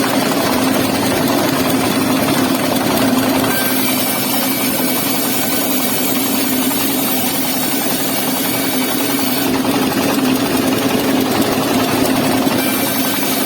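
Wood saw driven by a car engine, running steadily at a constant pitch.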